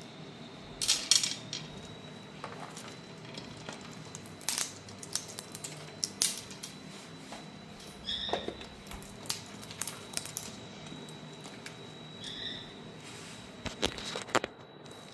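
Indian ringneck parrots eating: irregular crisp clicks and crunches of beaks working on food, with two short chirps, about eight and twelve seconds in. A faint steady high whine runs underneath.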